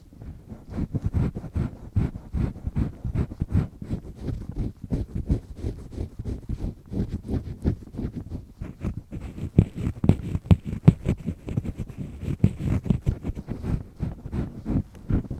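Double-disc earpick scraping firmly in an ear canal: a dense, irregular run of short, dull rubbing and scratching strokes, several a second, with a few sharper ticks past the middle.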